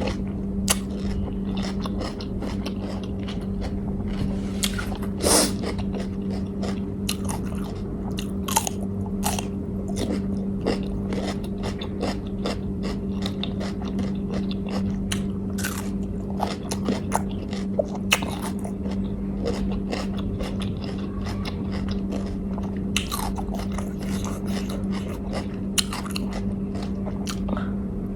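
Close-up mouth sounds of a person eating: chewing and biting with many short, sharp crunchy clicks scattered throughout. A steady low hum runs underneath.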